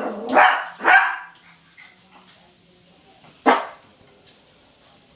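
A puppy barking at her own reflection in a mirror: two sharp barks close together at the start, then a single bark after a pause of about two seconds.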